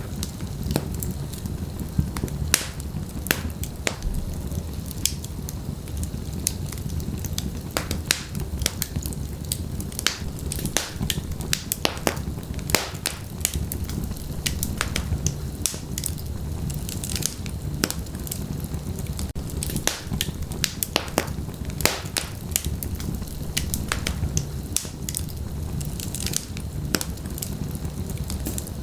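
Wood fire burning in a fireplace: a steady low rumble of the flames with frequent irregular sharp crackles and pops from the logs.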